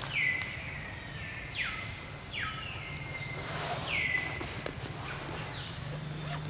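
Forest bird calls: a series of about six short whistles, each sliding quickly down in pitch and levelling off, spaced roughly a second apart, over a low steady hum.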